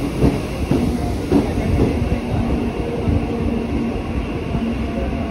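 Mumbai suburban local train (electric multiple unit) running, heard from its open doorway: a steady rumble of wheels on rails with a steady hum. Irregular clicks and knocks come as the wheels cross rail joints and points, most of them in the first two seconds.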